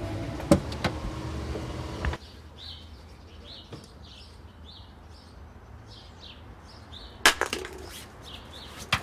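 A steady low rumble with a few sharp clicks, which cuts off suddenly about two seconds in. Then birds chirp in short repeated calls, with two sharp knocks about seven seconds in and another near the end.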